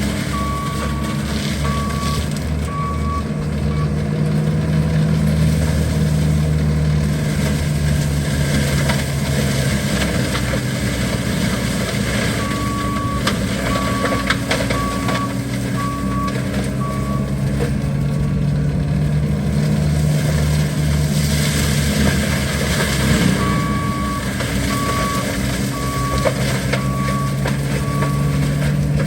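Skid steer engine running steadily under work, its pitch and load shifting, while the backup alarm sounds three times in runs of evenly spaced high beeps as the machine reverses.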